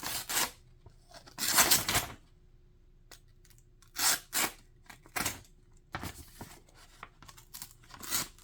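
Knife blade pushed through a sheet of paper in a paper test, in a series of short rasping tearing strokes rather than a clean slice: the edge is dull and jagged and has lost its sharpness.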